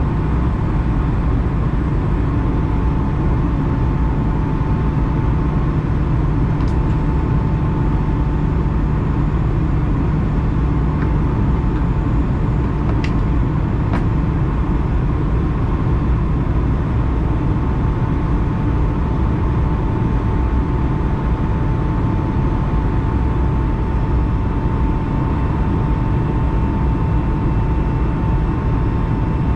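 Steady cabin noise of an Airbus A220-100 with its engines running: a constant low rumble with a thin steady whine, plus a few faint clicks.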